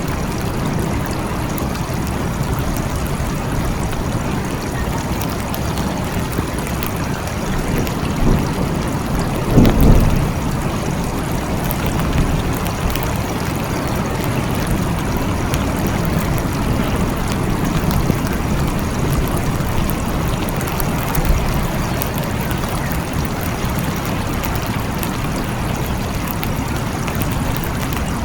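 Steady heavy rain falling, with one short, loud low rumble of thunder about ten seconds in.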